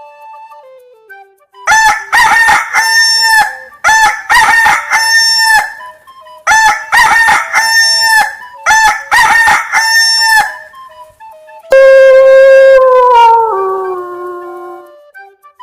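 Rooster crowing four times in quick succession, each cock-a-doodle-doo about two seconds long, followed near the end by one longer call that steps down in pitch.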